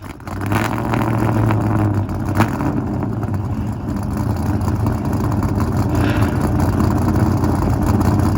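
A car engine running loudly with a deep, steady low rumble, and a sharp click about two and a half seconds in.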